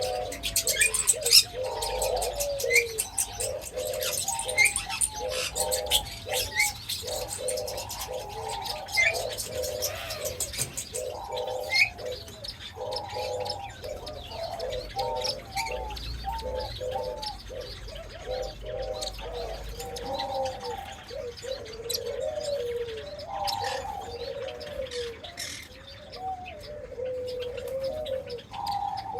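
A collection of birds calling together: many overlapping short calls that slide up and down in pitch, with higher chirps and clicks mixed in, busiest in the first dozen seconds.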